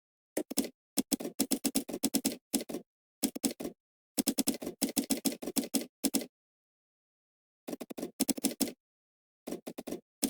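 Computer keyboard typing in quick bursts of keystrokes, broken by short pauses and one longer pause of about a second and a half a little past the middle.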